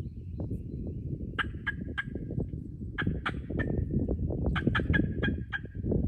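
Turkey yelping in three short runs of sharp, evenly spaced notes, about three a second, over a steady low rustling.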